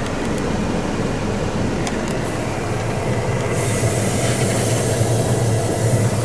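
Isuzu Elf's 4JJ1 turbo-diesel engine idling with a steady low hum. A hiss joins it a little over halfway through.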